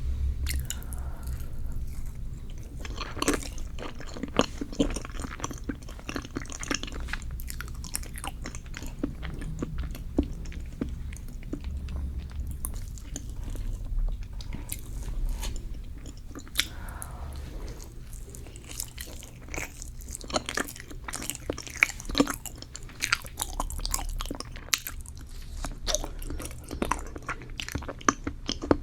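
Close-miked chewing of dense, sticky cheesecake: wet mouth sounds with many short sharp clicks and smacks.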